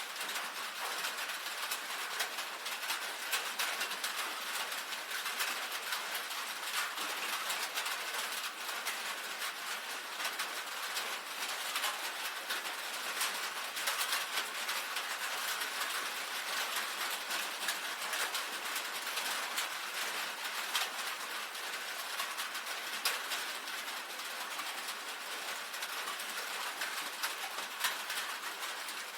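Rain on a tin roof: a steady, dense patter of drops ticking on the metal over a hiss.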